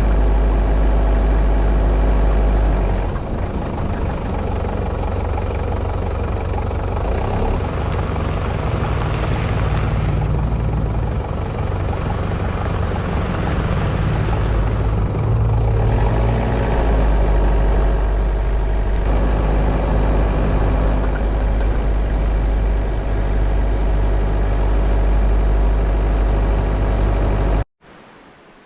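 Vehicle running with a steady low rumble and road-like noise, cut off abruptly near the end.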